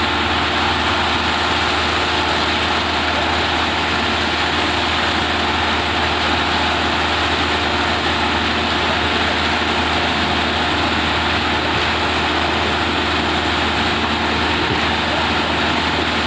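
An engine on construction machinery running steadily at constant speed, a loud continuous drone that cuts off abruptly at the end.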